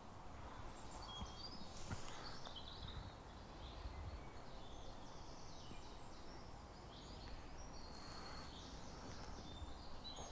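Faint, scattered short chirps of small birds over a low background rumble.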